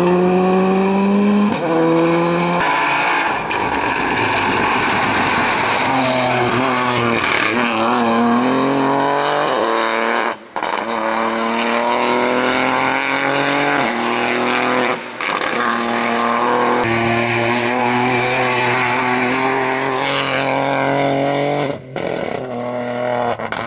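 Rally cars at full throttle on a stage, engines revving up and dropping back again and again as they shift gears. The sound changes abruptly several times, as one car gives way to another.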